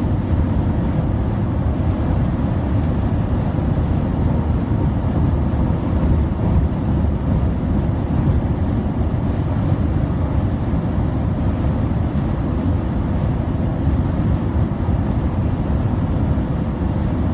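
Steady highway vehicle noise: an even low rumble of engines and tyres on the road, with no separate events standing out.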